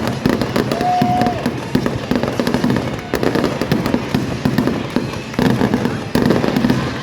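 Fireworks display, with shells bursting and crackling one after another and sudden louder bursts a few seconds in.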